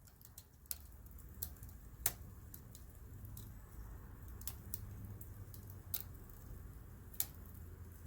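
Wood campfire crackling, with irregular sharp pops and snaps about once or twice a second, the loudest about two seconds in, over a low steady rumble of burning.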